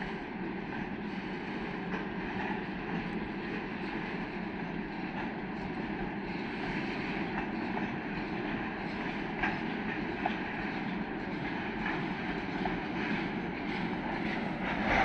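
Freight train hauled by a 2ES6 electric locomotive, heard as a steady rumble of wheels on rails that slowly grows louder as it approaches, with a few faint clicks and a rise in level near the end.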